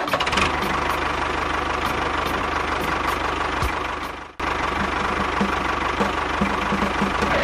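Motor running steadily, like an idling engine, with a steady whine. It cuts out sharply about four and a half seconds in and comes straight back.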